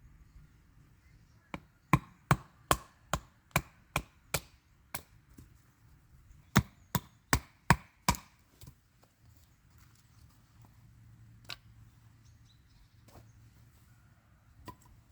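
A blade chopping into wood: a run of about nine quick, sharp strokes, then after a short pause five more.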